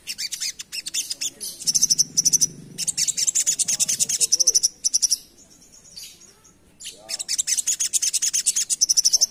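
A sogok ontong (sogon) sunbird singing a fast, chattering song of high, rapid notes in long runs. It pauses for about two seconds midway, then resumes.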